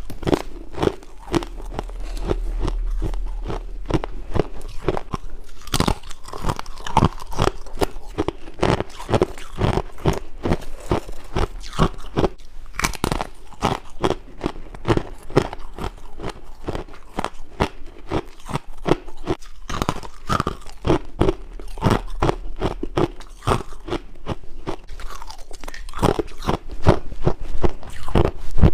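A person biting and chewing crunchy frost and ice, a dense run of rapid crisp crunches without pause.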